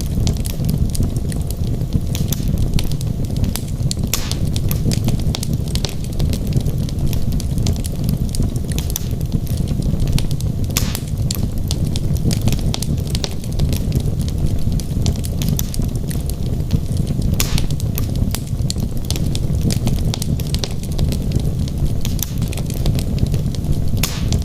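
Wood logs burning in a fireplace: a steady low rumble of flame with frequent sharp crackles and pops, a few of them louder.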